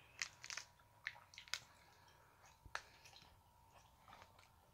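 Faint scattered clicks and squishy mouth sounds of gummy candies being chewed, most of them in the first three seconds, over a faint steady hum.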